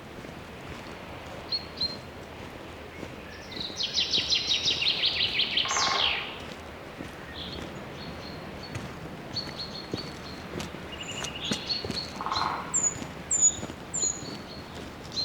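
Songbirds calling in forest: a fast, loud trill lasting about two seconds, starting about four seconds in, then scattered short high chirps and a few quick down-slurred whistles near the end, over a soft steady background hiss.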